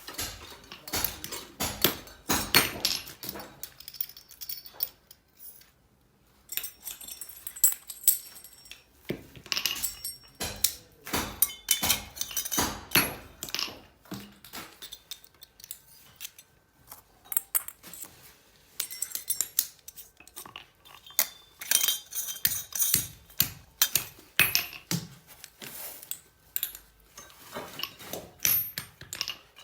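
Metal clinking and clattering: many light, irregular knocks and clinks in clusters, with short lulls.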